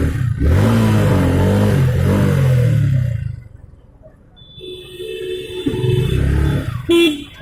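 A motor vehicle engine revving, its pitch rising and falling for about three seconds and then dying away, followed by a steady higher tone in the second half and a short knock near the end.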